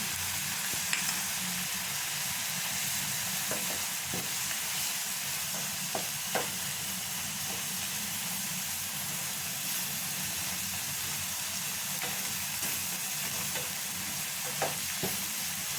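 Chopped onions and ground spices sizzling steadily in melted butter in a pan on a low flame, with a few sharp clicks of a utensil against the pan as it is stirred.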